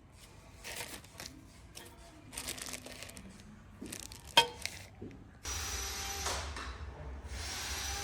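Faint handling rustles and small clicks, one sharper click, then an Aquablast wet-blasting cabinet's spray gun starts up with a steady hiss carrying a faint whistle. The hiss breaks off briefly and starts again.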